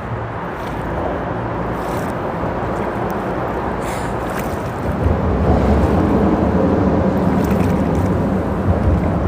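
Steady low rushing noise of creek water mixed with rumbling freeway traffic from the bridge overhead, getting louder about five seconds in.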